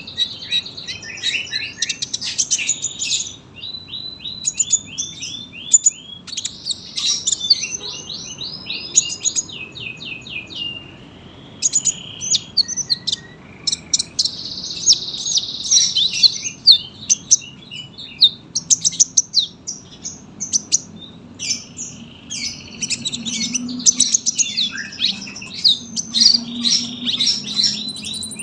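Kolibri ninja sunbird singing a long, continuous song of rapid high-pitched chirps and fast trills of repeated notes, with only brief pauses.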